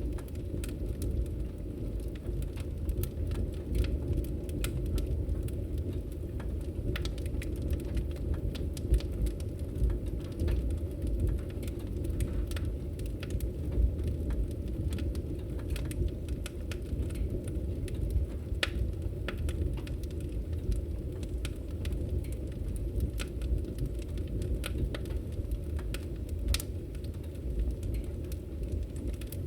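Wood fire crackling in a fireplace: a steady low rumble of the flames with frequent sharp pops and snaps scattered throughout.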